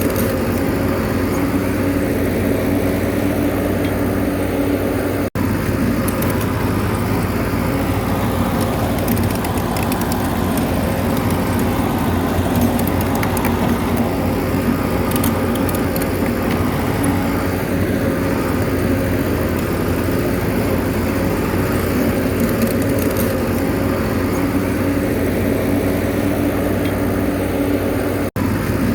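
Bulldozer's diesel engine running steadily, a constant low drone broken by two momentary dropouts.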